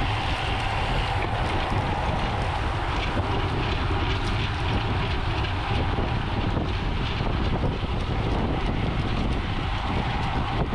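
Steady wind rushing over the microphone at riding speed, with the rolling noise of a road bicycle in motion.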